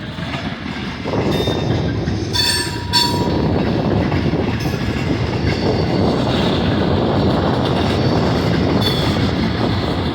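Freight cars of a long manifest train rolling past on steel rails, a steady rumble of wheels that grows louder about a second in. Brief high-pitched wheel squeals come about two and a half seconds in and again near nine seconds.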